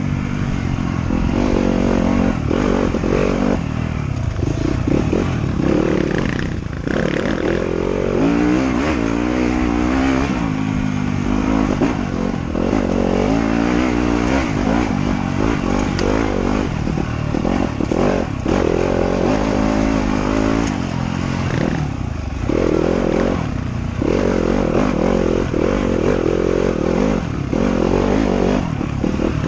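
Trail motorcycle engine revving up and down again and again as the throttle is opened and closed, with brief let-offs in between, plus some clatter.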